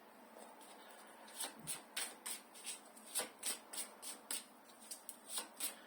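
Tarot cards being shuffled and handled: a run of short, crisp card flicks and snaps, a few each second, starting about a second and a half in.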